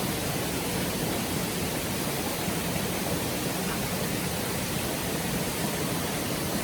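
Stream water rushing steadily, a constant even hiss without pauses.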